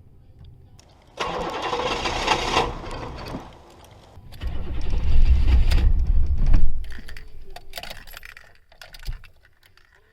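Cold start of a 1982 Oldsmobile 350 (5.7 L) diesel V8 at about −5 °C: a burst of cranking noise starts about a second in, then a louder deep rumble from about four and a half to seven seconds fades away.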